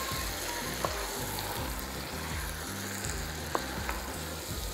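Chicken pieces and puréed tomato sizzling in hot oil in a pot while a wooden spoon stirs them, with a couple of light clicks.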